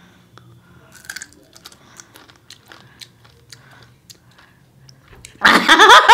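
Faint crisp crunching as a raw green chilli is bitten and chewed, in small scattered clicks. About five seconds in, loud laughter from two women breaks out suddenly and is the loudest sound.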